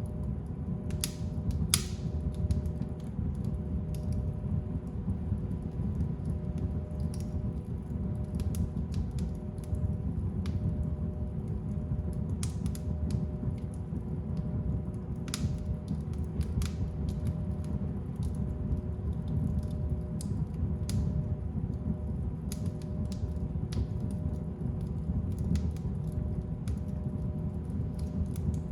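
Wood fire burning in a fireplace: a steady low rumble of flames with irregular crackles and pops, the sharpest about two seconds in.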